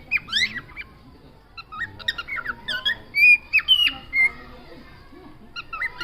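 Pet parrot calling in quick bursts of high, gliding chirps and squawks, in two bouts with a short pause between them.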